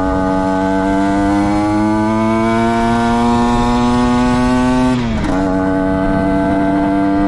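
Derbi Senda motorcycle engine pulling under load, its pitch climbing steadily for about five seconds, dipping sharply and briefly, then climbing again.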